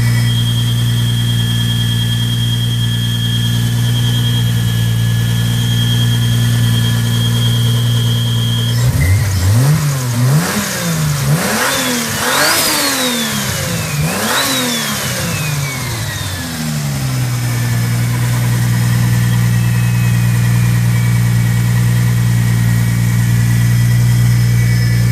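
Lexus GS300's 2JZ-GTE inline-six, converted to a single turbo and running on E85, idling steadily while still warming from a cold start. About nine seconds in it is blipped through several quick revs that rise and fall, then it settles back to idle.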